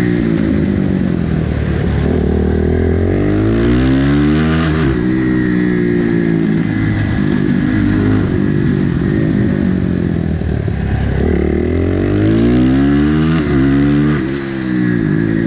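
Supermotard motorcycle engine under hard riding, its pitch climbing again and again as it accelerates through the gears and dropping sharply on braking and downshifts, heard from on board the bike.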